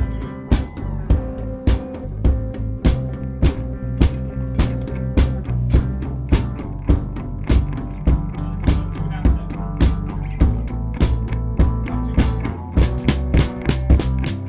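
A band jamming: a drum kit keeps a steady beat of about two hits a second under a bass line and long held pitched notes.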